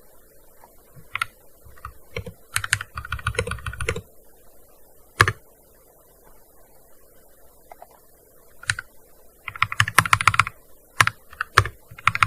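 Typing on a gaming keyboard: quick runs of keystrokes broken by a few separate single strokes, with a pause of a few seconds in the middle.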